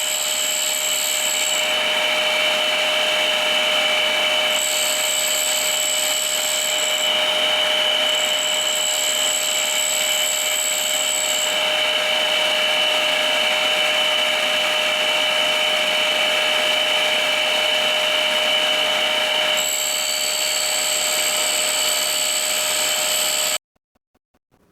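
Tool and cutter grinder running alongside a shop vacuum cleaner while a gear hob is sharpened: a loud, steady motor whine and hiss, with a higher hiss that comes and goes four times as the wheel works the cutter. It cuts off suddenly near the end.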